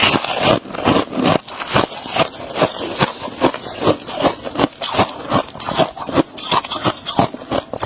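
Freezer frost being chewed close to the microphone: a steady run of loud, crisp crunches, about two to three a second.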